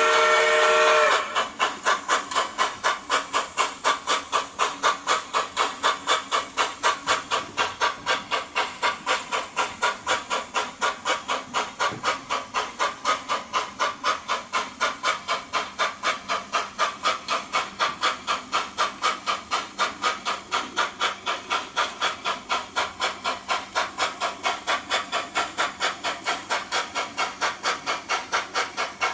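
Sound-equipped model steam locomotive: its whistle sounds and cuts off about a second in, then it chuffs steadily at about three beats a second with a hiss of steam, as the engine pulls away.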